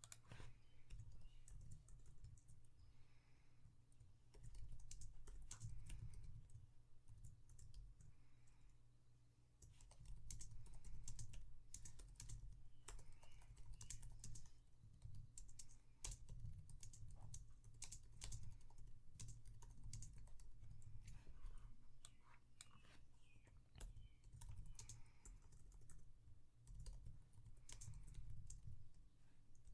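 Typing on a computer keyboard: irregular runs of key clicks with short pauses between them, over a low steady background hum.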